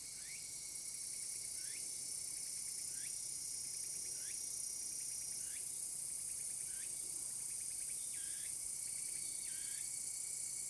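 Cicadas chorusing in summer: a steady high-pitched drone, with another call repeating eight times, about once every second and a half.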